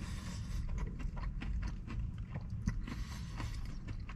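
A person chewing a mouthful of crispy breaded fried chicken sandwich close to the microphone, with many small irregular crunches and mouth clicks.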